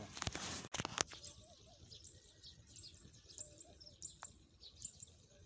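Faint chirping of small birds, many short high calls. In the first second there is rustling with a sharp click.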